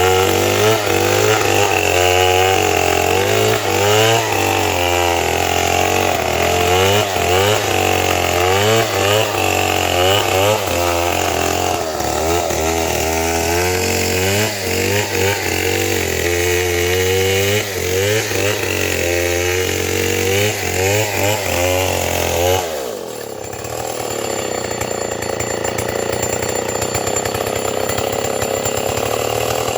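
Chainsaw cutting timber, its engine pitch rising and falling rapidly over and over under load. About three quarters of the way through the sound changes abruptly to a steadier saw or engine run.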